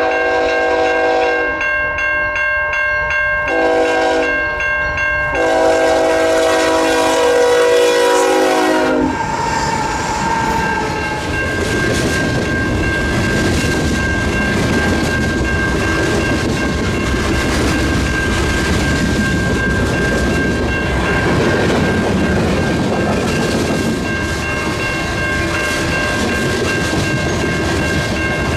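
Diesel freight locomotive air horn sounding a series of blasts, the last one long and ending about nine seconds in. The lead GE locomotives then pass close with a heavy engine rumble, followed by freight cars clacking over the rail joints.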